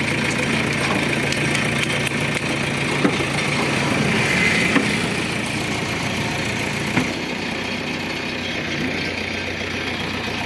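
Diesel engine of a heavy machine running steadily at low revs, with a few short sharp knocks over the top.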